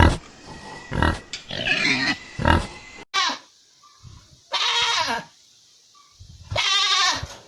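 A pig grunting in short, noisy calls about once a second. After an abrupt cut about three seconds in, a goat bleats three times, each call wavering.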